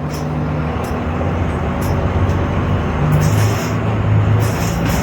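Blue Bird school bus driving off: its engine runs under load and its note shifts as it gets going, over a steady noise of road and rattling body that grows louder.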